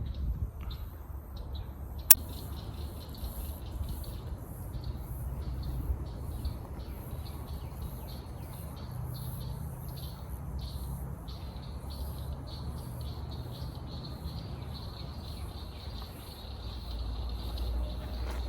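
Woodland ambience: birds chirping in short repeated calls over a steady low rumble. A single sharp click about two seconds in.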